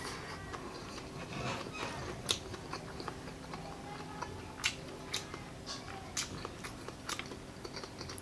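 A person chewing a mouthful of rice and baked bone marrow close to the microphone, with scattered sharp, wet mouth clicks.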